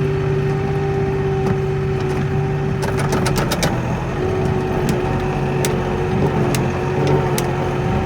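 Kioti NX4510 compact tractor's diesel engine running steadily under plowing, with a quick cluster of sharp clicks or rattles about three seconds in and a few single clicks after.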